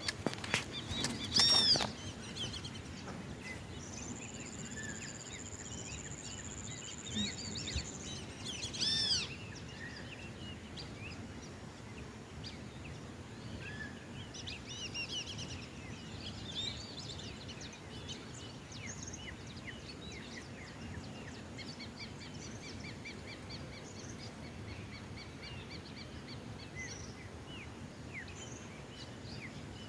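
Several wild birds calling and singing over a steady outdoor background hiss. There are a few sharp knocks and loud arched calls at the start, a long steady high note for about four seconds, another burst of arched calls about nine seconds in, then scattered chirps and fast repeated trills.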